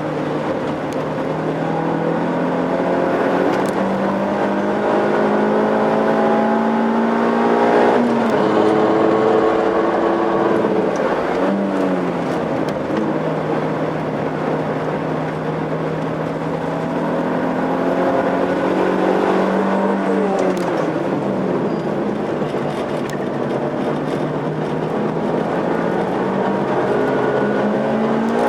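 Suzuki Swift's engine pulling hard on a circuit lap, its pitch climbing slowly through long stretches and dropping sharply about eight seconds in, again around twelve seconds and twenty seconds, as it shifts gear or brakes for corners. A steady rush of road and wind noise runs underneath.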